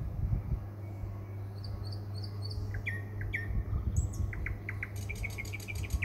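Small birds chirping: short, sharp calls scattered through, then a quick run of repeated notes near the end, over a steady low hum.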